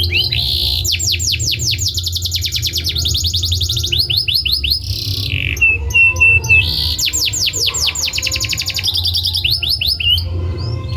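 Domestic canary singing: phrase after phrase of fast trills made of rapidly repeated sweeping notes, with a short held whistle about six seconds in. A steady low hum runs underneath.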